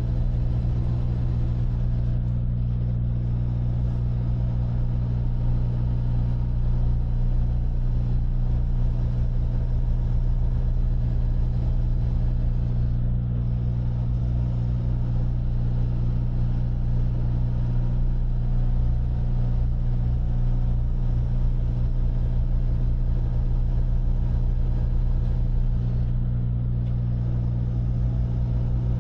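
Diesel engine of a Freightliner semi truck running at a steady pace, heard from inside the cab as a constant low drone.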